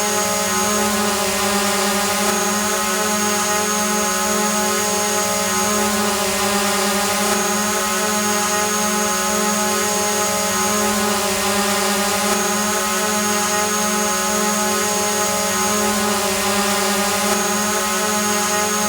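Drone hovering: a steady buzz of its propellers and motors, holding one pitch with many overtones over a hiss.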